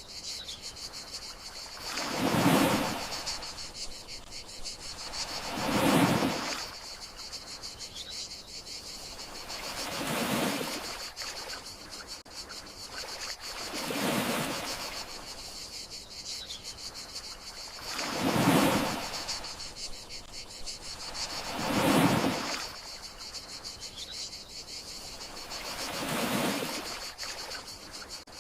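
Gentle sea waves washing in and drawing back about every four seconds, over a steady high chorus of crickets.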